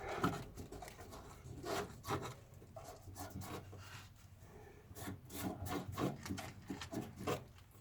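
Hands-on handling noise: a run of irregular rubbing and scraping strokes with light knocks, as of parts and covering being worked around an opened fuel tank.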